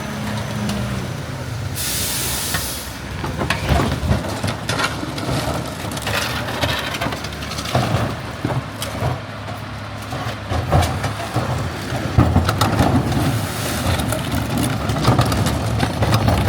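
Garbage truck engine running, with a short air-brake hiss about two seconds in, followed by a string of sharp knocks and clatter as the load is handled at the truck.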